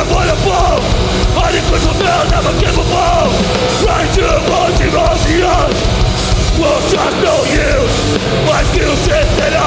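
Hardcore punk band playing live at full volume: distorted guitars, bass and drums.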